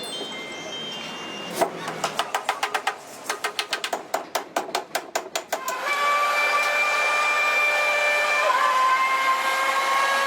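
A quick run of sharp taps, about seven a second, then a steady whistling hiss that jumps slightly in pitch near the end.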